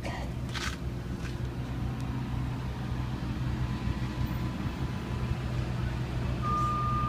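A vehicle engine idling with a steady low hum and a few light clicks in the first second or so. Near the end, a reversing alarm starts beeping.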